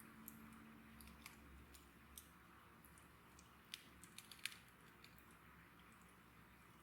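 Wood fire crackling faintly: scattered sharp ticks and pops over a soft hiss, the loudest pop about four and a half seconds in.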